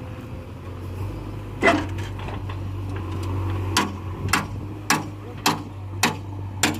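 Hammer blows on metal, one and then a run of six at about two a second, over a diesel engine running steadily.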